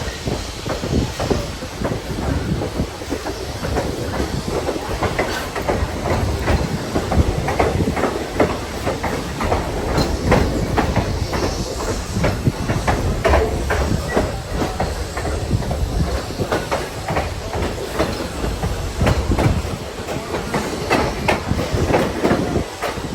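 Excursion train rolling along the track: a steady low rumble with frequent irregular clicks and rattles of the wheels and cars.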